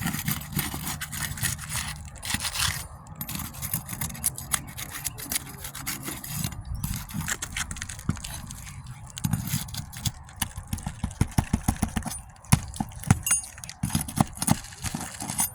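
Hand tools working on asphalt roof shingles: scraping, with a run of quick sharp knocks and clicks in the second half as nails are worked in the shingle.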